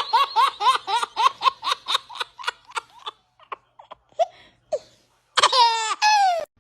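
Hearty laughter in a quick run of high-pitched "ha"s, about four or five a second, that fade out, then two longer, high calls falling in pitch near the end.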